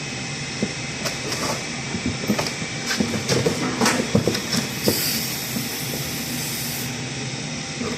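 A steady hiss of gas, with scattered clicks and knocks of metal tool work on refrigerator pipework. A louder, higher hiss bursts out for about two seconds just past the middle, in keeping with pressurized gas being blown through the oil-fouled condenser.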